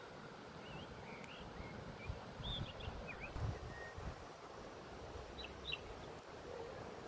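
Small birds chirping in short, quick notes, in a scatter of calls over the first few seconds and again about two-thirds of the way in, over a steady low background rumble.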